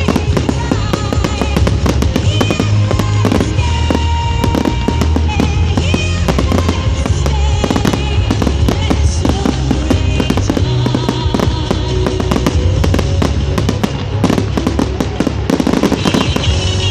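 Fireworks going off in quick succession, a continuous run of crackles and bangs that grows into a dense flurry near the end, with music playing along.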